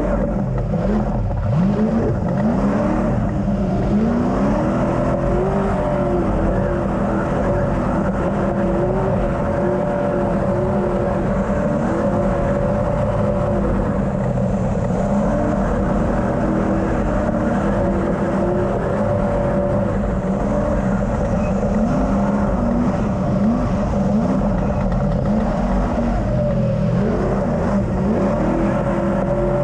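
Ultra4 off-road race car engine running hard, its pitch rising and falling again and again as the throttle is worked, over a steady whine.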